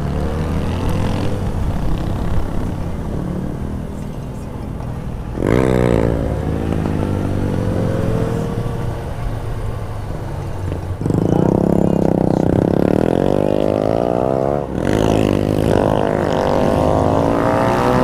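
Yamaha XJ6's inline-four engine running under way with wind noise on the microphone, the revs climbing about five seconds in and again, louder, from about eleven seconds in.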